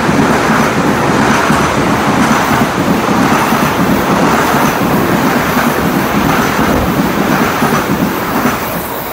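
Metro-North M8 electric multiple-unit train passing at speed close by: a loud, steady rush of wheels on rail with a pulsing clatter. It drops away just before the end as the last car goes by.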